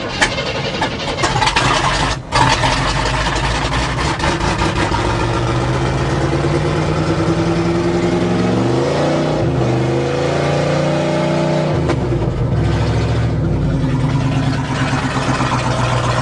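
GMC truck's 400 small-block V8 cranking and catching about two seconds in after its fuel system is reprimed, then running steadily. It is revved up and back down a couple of times near the middle and settles again.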